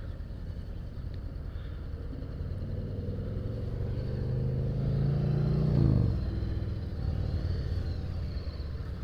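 Honda CBR500R's parallel-twin engine pulling away and accelerating, its pitch climbing for a few seconds, then dropping sharply about six seconds in at an upshift before it runs on steadily. Wind and road rumble sit underneath.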